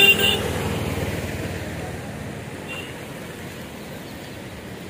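A motor vehicle passes close by. Its engine is loudest at the start and fades away over the next couple of seconds, leaving a steady background noise.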